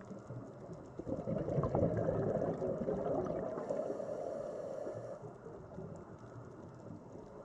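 Underwater sea ambience: a muffled, gurgling wash of moving water. It swells louder about a second in and eases back down after about five seconds.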